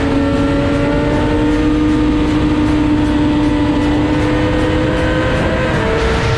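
Motorcycle engine at high speed, its steady tone climbing slowly in pitch, with a brief shift in pitch near the end, under a heavy rushing noise.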